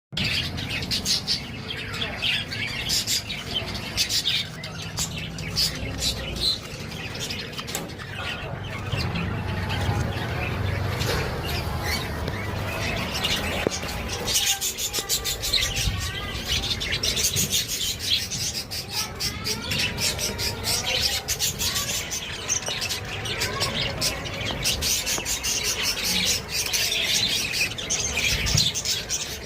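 Budgerigars chirping and chattering, a dense run of short high calls with many sharp clicks.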